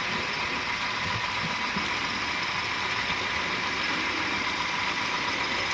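Model trains running on the layout: a steady hum of small electric motors with faint whining tones and wheel noise on the track.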